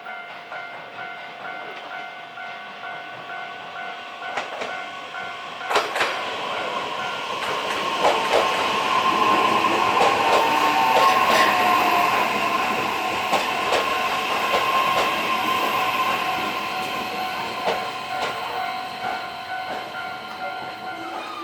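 Japanese level-crossing alarm bell ringing steadily while a JR E131-600 series electric train passes over the crossing. The train's running noise and wheel clacks build from about six seconds in, peak in the middle and slowly fade. The bell stops right at the end.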